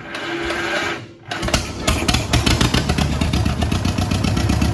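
John Deere LA tractor's two-cylinder engine cranking over for about a second, then catching and running steadily with rapid, even firing beats: the newly swapped-in donor engine starting up on choke.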